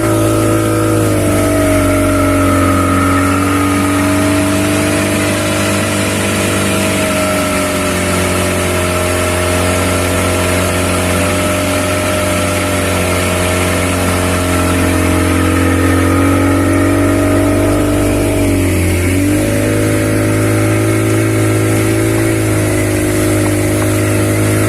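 40 hp speedboat engine running steadily at speed, with water and wind rush over it; about three-quarters of the way through the engine note dips briefly and picks back up.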